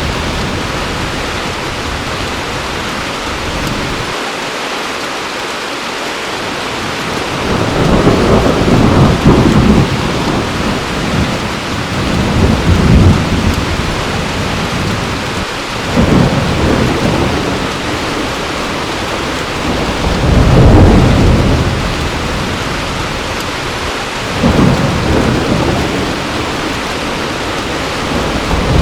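Heavy rain falling steadily with thunder rumbling in repeated low swells, several rolls over the span.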